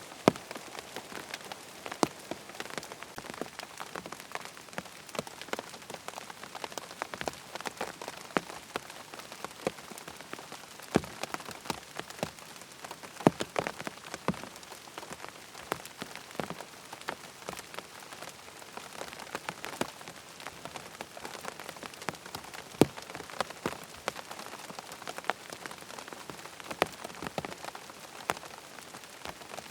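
Steady rain on a tent, with a hiss of fine rain under many separate heavier drops striking the fabric, some louder than the rest.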